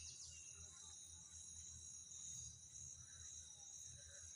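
Faint, steady high-pitched insect chorus, crickets trilling without a break, over a faint low rumble.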